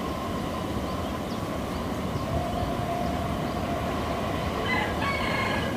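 Diesel locomotive hauling a freight train of tank wagons coming out of a tunnel, its engine and wheels on the rails making a steady rumble. A brief high-pitched tone joins in near the end.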